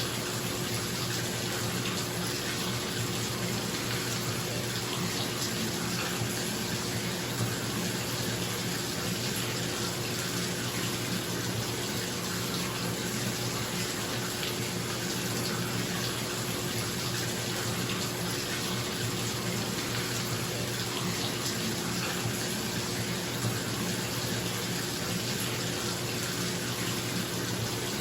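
Bathtub faucet running steadily into the tub, a constant rush of water, with a bathroom exhaust fan's steady hum underneath.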